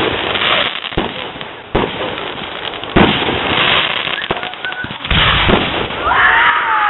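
Fireworks display: aerial shells bursting with a string of sharp bangs, crackling between them, and a wavering whistle near the end.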